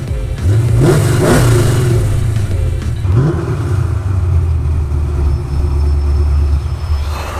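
Ford Mustang engine revving: the pitch sweeps up about a second in and again near three seconds. It then settles into a steady, loud, deep drone as the car drives.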